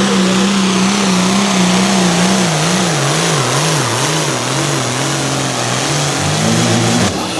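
Diesel engine of a hot farm class pulling tractor under full load, dragging a pulling sled. Its pitch holds steady, wavers up and down a few seconds in, then settles lower as the load builds.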